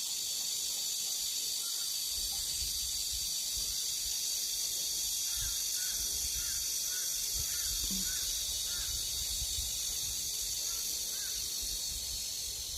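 쓰르라미 (evening cicada) calling steadily in a high-pitched buzz. A bird gives a run of about seven short repeated chirps midway, then two more near the end. A low rumble comes in about two seconds in.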